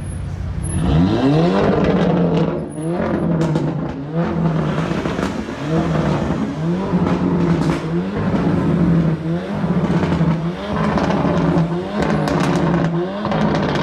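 A stationary car's engine being revved hard over and over, about ten times, each rev rising fast, holding high, then dropping back.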